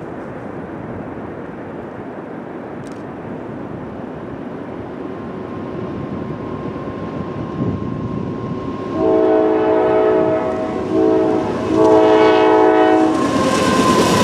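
An approaching diesel freight train rumbles louder and its locomotive sounds a multi-note air horn in three blasts: long, short, long. Near the end the train reaches the microphone with a loud rush of rolling noise.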